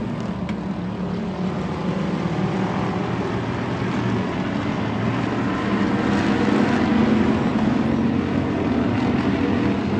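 Stock car V8 engines running hard on a dirt oval track, a continuous engine noise with a shifting pitch.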